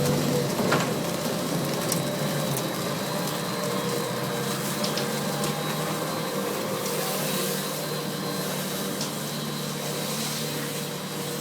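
Winery crush equipment running: a steady machine hum with several held tones over a hiss, with a few scattered clicks and knocks.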